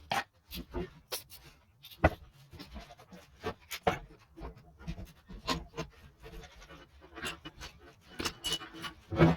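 Irregular clinks and knocks of metal hand tools and engine parts being handled during motorcycle engine work, the sharpest knocks about two seconds in and just before the end.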